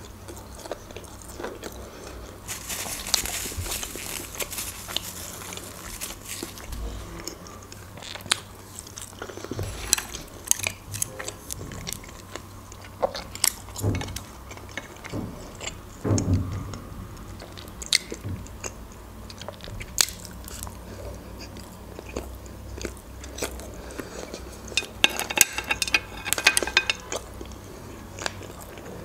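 A person chewing and biting food close to the microphone, with many scattered short clicks and crunches and a denser crackly stretch near the end.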